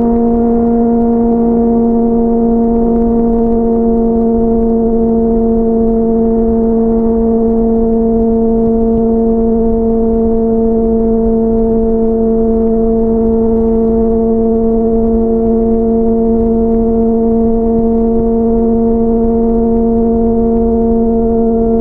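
Sport motorcycle's inline-four engine running at a steady high cruising speed, one even tone that holds its pitch throughout, with wind rumble on the microphone.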